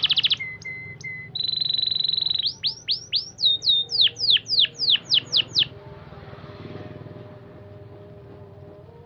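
Canary singing: a fast trill breaks off, then three short chirps and a steady trill, followed by a run of about a dozen quick downward-sweeping whistled notes.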